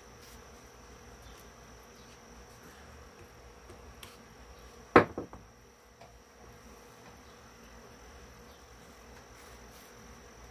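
A single sharp knock about halfway through, followed quickly by two quieter taps, over a steady faint high-pitched whine and low hum.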